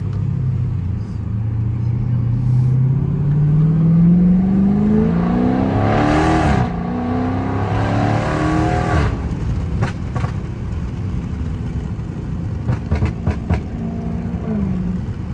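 Dodge Charger 392's 6.4-litre HEMI V8 under full throttle, its pitch climbing through one gear, dropping at a quick upshift about six seconds in, then climbing again in the next gear. After the driver lifts off around nine seconds, the exhaust pops and crackles on the overrun from its pop tune, and the engine settles to a steady cruise near the end.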